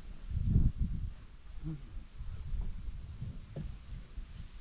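Insects chirping in a steady fast pulse, about four chirps a second, over a low rumbling noise that is loudest about half a second in.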